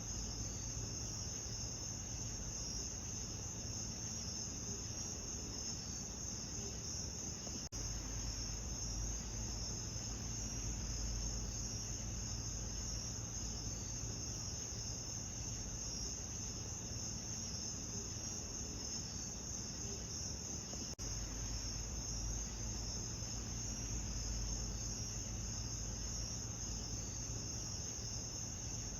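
A steady chorus of crickets, a continuous high chirring, over a low, even rumbling hiss. The sound drops out for an instant twice, about 8 and 21 seconds in.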